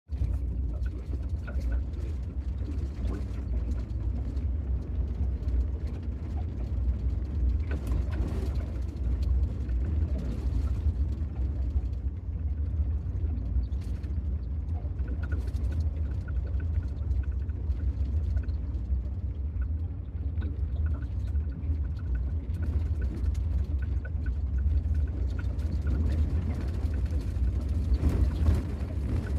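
A van driving, with a steady low road rumble.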